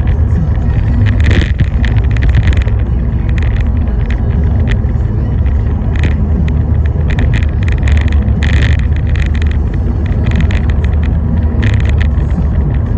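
Steady low rumble of a car driving on a rainy road, with frequent short, irregular hissing ticks over it.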